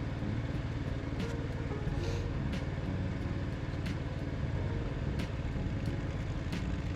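Mini tractor engine running steadily, with a sharp click coming back about every second and a third, five times.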